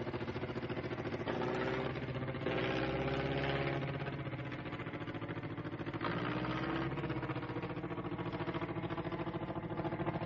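Piston engine of an early propeller aircraft running steadily with a rapid beat, its pitch rising and falling slightly a few times.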